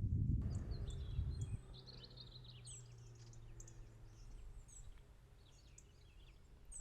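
Birds chirping faintly in the open air, with a low rumble during the first second and a half.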